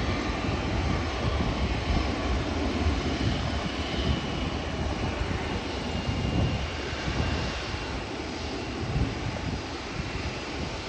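Jet airliner passing low overhead with a steady engine rush and a faint high whine, easing off a little near the end.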